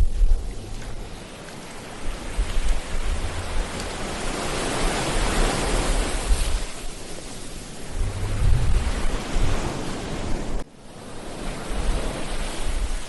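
Ocean surf breaking on a beach: a steady wash of noise that swells to a crest about five or six seconds in and falls back, with another smaller swell a few seconds later. The sound drops out abruptly for an instant near the end, and a low rumble of wind on the microphone runs underneath.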